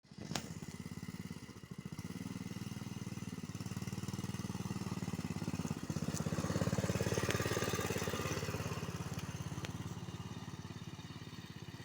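Engine of a small vehicle running steadily under way, a little louder for a couple of seconds past the middle.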